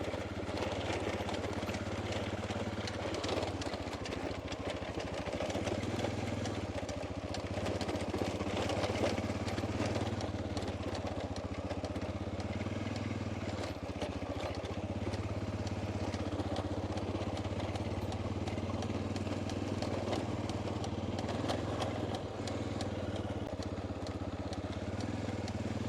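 Honda Dominator's single-cylinder four-stroke engine running steadily as the motorcycle is ridden along a dirt track, with scattered light clicks over the even drone.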